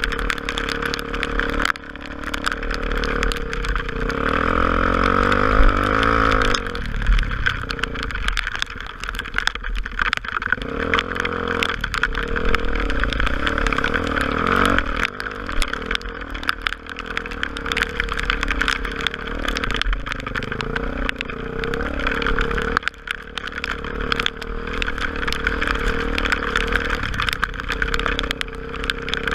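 Honda Tornado single-cylinder motorcycle engine running under way, its pitch rising and falling with the throttle. Wind noise and many sharp ticks sound throughout.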